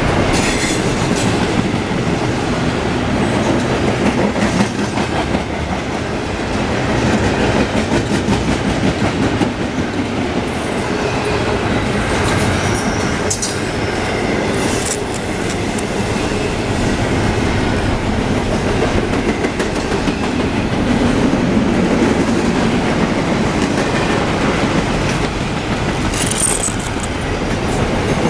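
Container-laden intermodal well cars of a freight train rolling past: a steady rumble of steel wheels on rail with clatter over the rail joints. A few brief high squeals from the wheels come through about halfway and again near the end.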